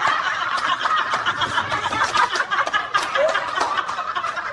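Several people laughing hard together, a dense run of chuckles and cackles that eases off slightly near the end.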